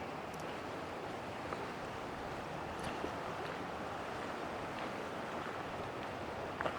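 Steady rushing of the Yellowstone River running high and fast with spring meltwater and rain.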